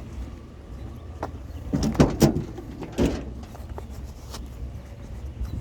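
A vehicle running with a steady low hum, and a few sharp knocks and clatters about two to three seconds in, like a door or loose metal banging.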